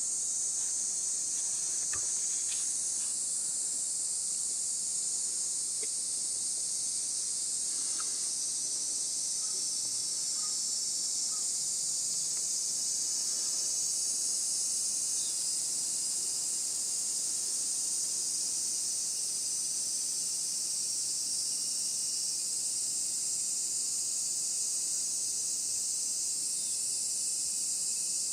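Dense, steady chorus of insects, high-pitched and unbroken, with a few faint short chirps.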